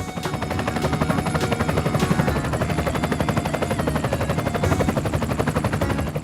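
Helicopter rotor sound effect: a rapid, even chopping of about nine beats a second.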